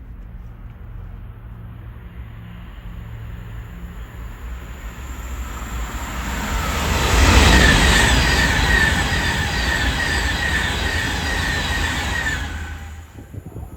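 Train passing through the station. The rumble builds, is loudest about halfway through with a rhythmic high-pitched ringing from the wheels, and drops away sharply near the end as the train clears.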